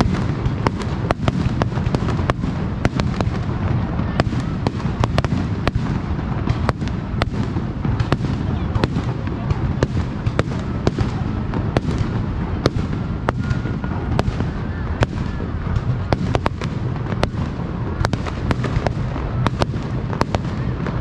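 Aerial fireworks display: shells bursting in quick succession, a sharp bang or crackle every fraction of a second over a continuous low rumble of booms.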